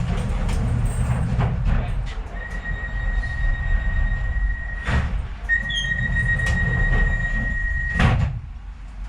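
Docklands Light Railway train running with a low rumble, with a steady high-pitched wheel squeal for about five and a half seconds, broken once. Two sharp knocks come midway and near the end.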